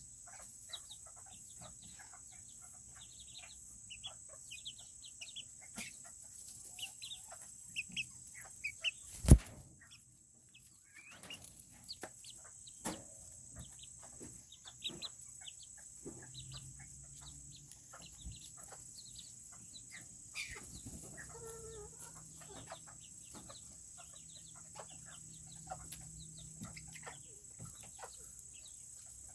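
Serama bantam chickens clucking with many short, high peeps and small clicks scattered throughout. A single sharp, loud knock comes about nine seconds in.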